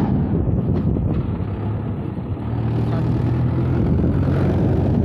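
Tractor engine running steadily while hauling a crusher load.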